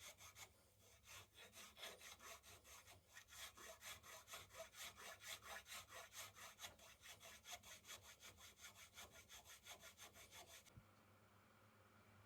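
Rapid, rhythmic back-and-forth scraping of a hand tool working the piece, several strokes a second, stopping suddenly near the end.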